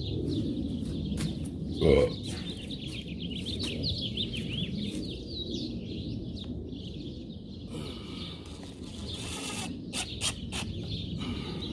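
Small birds chirping over a low steady background rumble, with one loud knock about two seconds in and a few sharp clicks near the end.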